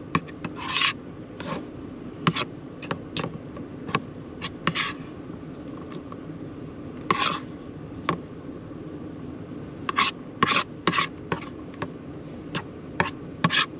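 A spoon scooping stuffing from a bowl and packing it into bell peppers: irregular short scrapes and soft clicks of utensil against bowl, over a steady low hum.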